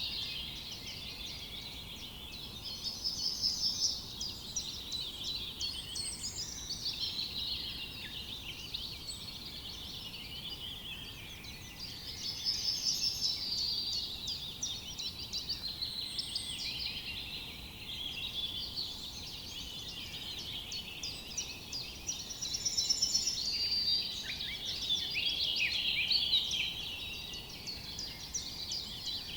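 A dense chorus of many songbirds singing at once, overlapping trills and quick chirps, swelling louder a few times.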